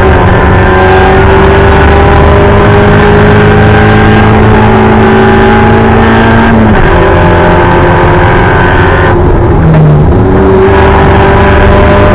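Spec Miata race car's four-cylinder engine under hard acceleration, its pitch climbing slowly through a long pull. The note breaks off about seven seconds in, dips lower briefly around ten seconds as the car slows, then pulls again.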